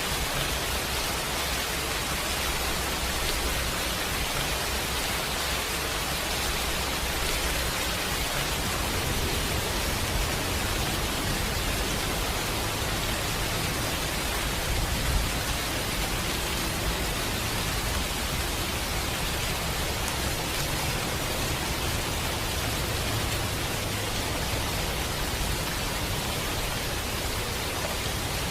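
Steady rain hiss, with a few isolated pops about ten and fifteen seconds in.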